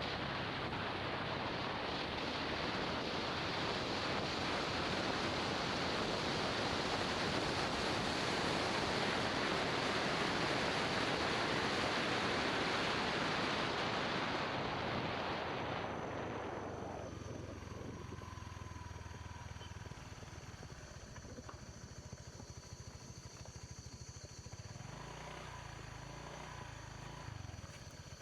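Wind rushing over the microphone of a moving motorbike, with the engine running underneath. About halfway through the wind noise drops away as the bike slows, leaving a quieter engine sound.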